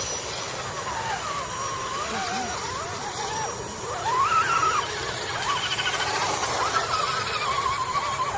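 Radio-controlled truck motor whining, its pitch rising and falling with the throttle, louder in the second half.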